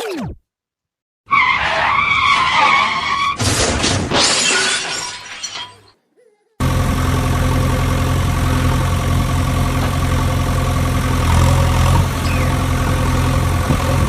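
Cartoon sound effects: a short falling whistle, then a crash with breaking and shattering that fades out over a few seconds, then a truck engine idling steadily from about six and a half seconds in.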